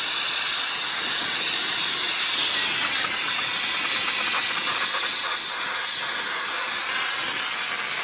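Oxy-fuel brazing torch flame hissing steadily while heating 7/8-inch copper pipe, easing slightly near the end.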